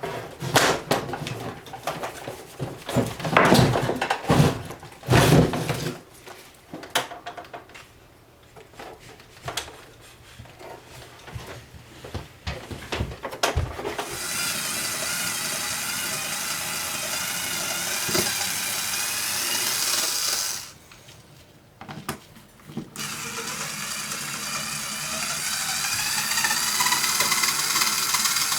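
Knocks and clatter of metal being handled, then a power tool running in two long spells of about six seconds each with a short pause between them, its pitch creeping upward during the second spell.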